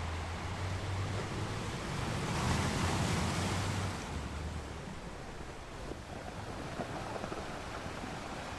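Sea waves: a wave surges and breaks, loudest about three seconds in, then settles into a softer wash with faint crackling of foam. A low rumble sits under the first half.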